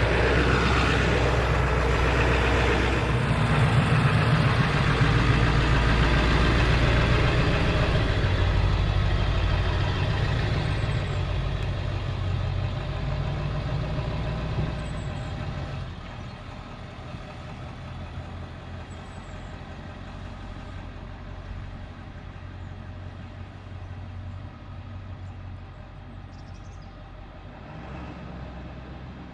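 Truck engine running with a low rumble, loud for the first ten seconds or so, then fading and staying quieter from about halfway through.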